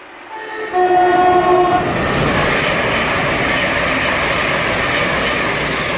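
Class 700 electric multiple unit sounds its two-tone horn, a short higher note then a longer lower one of about a second. It then passes close by with loud, steady rushing wheel and rail noise.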